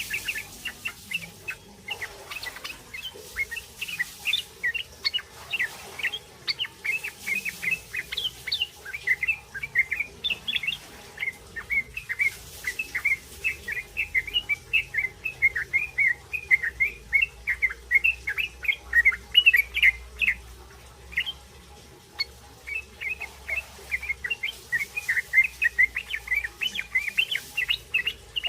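Young yellow-vented bulbul giving its rapid 'ngriwik' chatter: a continuous stream of short high chirps, several a second, with a brief pause about 22 seconds in.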